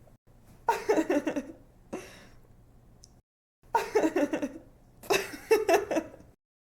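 A young woman giggling in several short bursts of quick, pulsed laughs. It cuts off abruptly to dead silence near the end.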